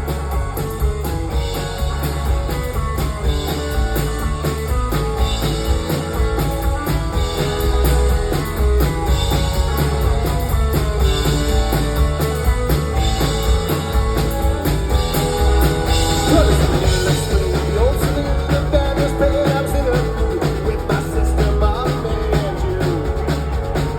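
Rock band playing live, loud and steady, with a drum kit keeping the beat under an instrumental break with no sung words.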